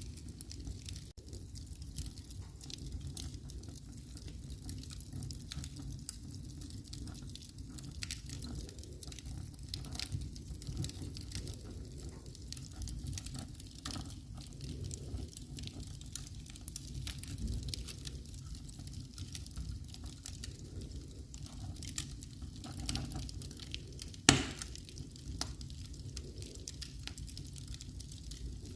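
Fire in a fireplace crackling: scattered small pops and snaps over a steady low rumble and hiss, with one sharp, much louder pop about three-quarters of the way through.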